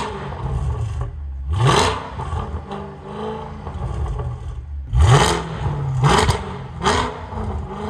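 Mercedes-Benz CL63 AMG's naturally aspirated V8 revved in short blips while parked, heard at the exhaust tips: about four quick climbs in pitch, each cut off and falling back to idle, held down by a rev limiter in park that the owner puts around 4000 rpm. The exhaust is loud, peaking at about 110 dB on a meter held nearby.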